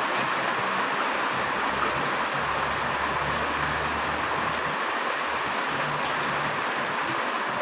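Heavy rain falling steadily, an even hiss, with a faint low hum underneath for a few seconds in the middle.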